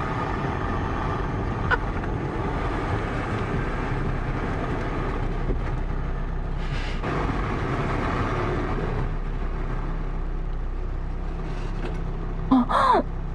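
Car running as it rolls forward through a drive-thru lane, a steady low engine and road hum heard from inside the cabin. Near the end, loud moaning sounds played through the car's speakers cut in.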